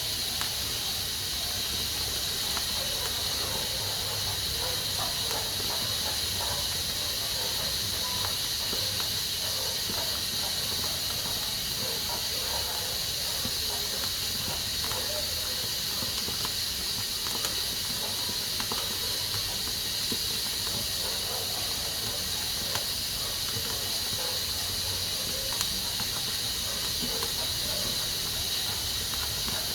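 Pressure cooker hissing steadily as steam escapes from its valve, with faint irregular sputtering underneath.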